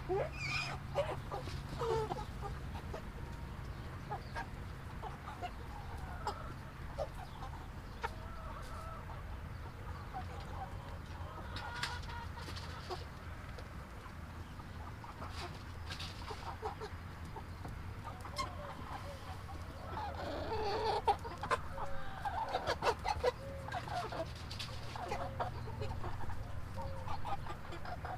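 A flock of chickens clucking and calling in short, scattered notes that grow busier about two-thirds of the way through, over a steady low hum.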